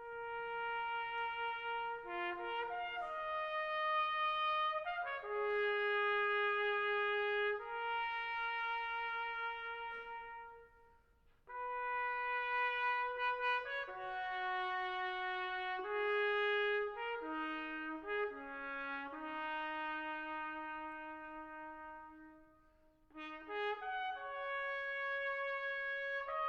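Brass music led by a trumpet, playing long held notes in slow phrases, with a short break about ten seconds in and another just before the end.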